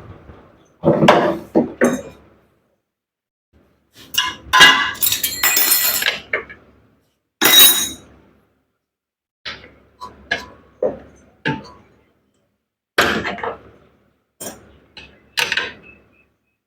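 Metal clinks, knocks and short scrapes from tools and parts being handled while a top-load washing machine's gearbox is dismantled. They come at irregular intervals with silent gaps between them, and there is a longer stretch of scraping and clattering about four to seven seconds in.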